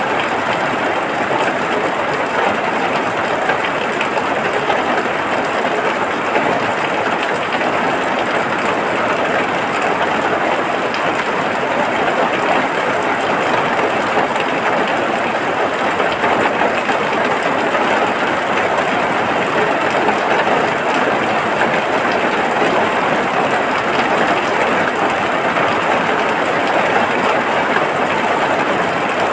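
Steady heavy rain, a dense even hiss without let-up.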